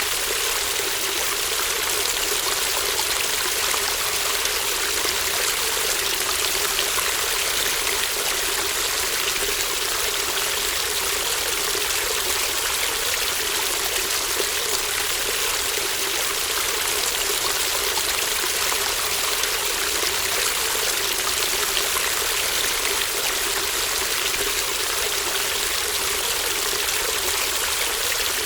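Small brook babbling: a steady, unbroken rush of running water with fine trickling.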